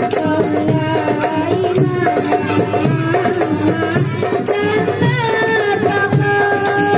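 Marawis ensemble playing: hand drums beat a steady repeating rhythm with jingling tambourine strokes, under a wavering melodic line.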